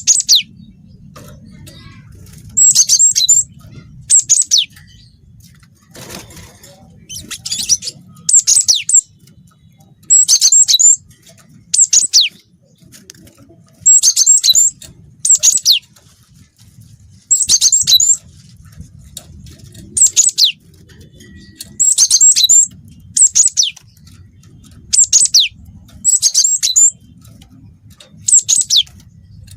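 Cinereous tit (gelatik batu) singing a high, short phrase again and again, about once every one and a half to two seconds, with falling sweeps in each phrase. Its song is filled in with canary-style phrases.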